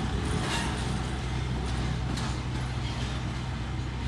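A vehicle running with a steady low rumble, with a couple of brief hissing bursts.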